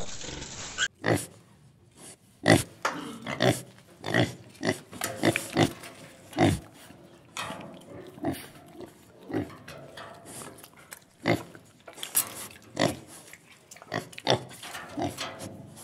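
Domestic pigs grunting: a long run of short, irregular grunts, one or two a second.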